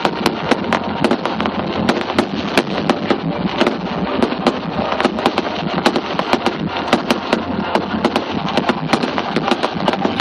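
Aerial fireworks display going off in quick succession: a dense, unbroken run of sharp cracks and bangs, several a second.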